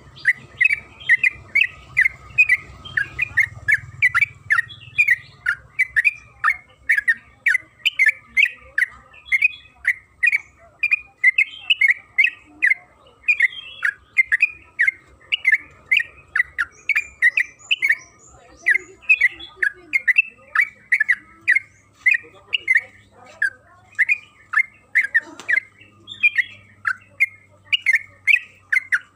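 Yellow-vented bulbul (trucukan) singing a long, unbroken run of short, rapid notes, about three a second.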